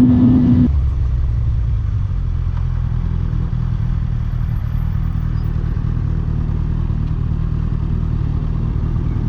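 Suzuki GSX-R1000 K7 inline-four through its stock exhaust: running at high revs, then the throttle is shut under a second in and the engine drops to a steady low-rev rumble.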